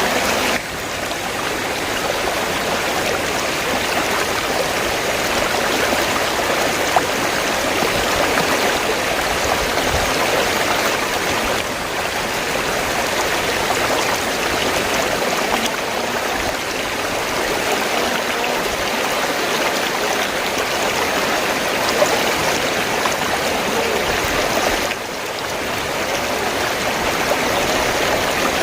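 River water flowing in a steady rush, with brief small dips in level about a second in and near the end.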